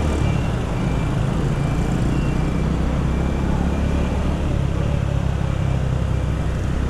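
Steady engine and traffic noise from a small single-cylinder motorcycle riding through busy road traffic, a constant low rumble with a hiss of wind and road noise over it.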